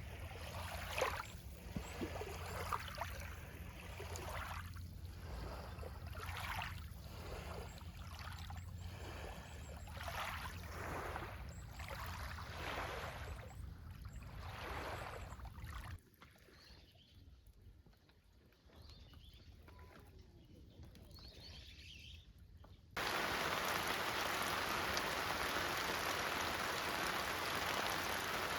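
Small lake waves washing onto the shore in repeated swells about every second and a half, over a low wind rumble. About sixteen seconds in this gives way to a faint hush, and near the end a steady hiss of rain starts suddenly.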